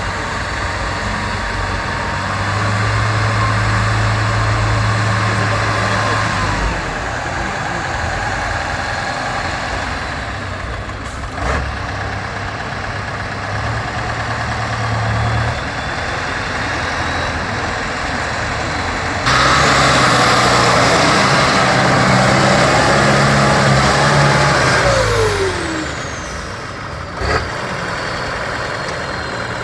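Off-road trial truck's engine working through the course, its revs shifting up and down between working and near idle. About twenty seconds in it gets much louder for several seconds, then the revs fall away, with a couple of short knocks along the way.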